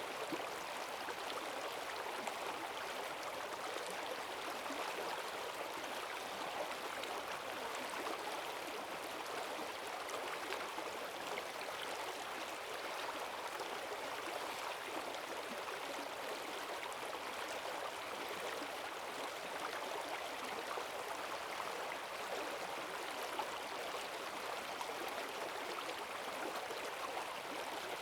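A rain-swollen forest stream rushing steadily over its bed, a continuous even splashing with strong current.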